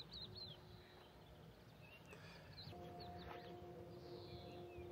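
Faint songbirds chirping in scattered short calls over a quiet outdoor background. A faint steady low hum comes in about halfway through.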